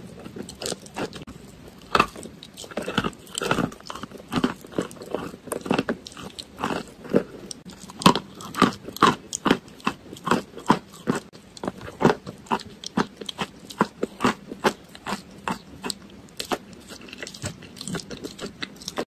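Close-miked chewing and biting of a crumbly white food. Sharp crunches come a few times a second, quickening in the second half.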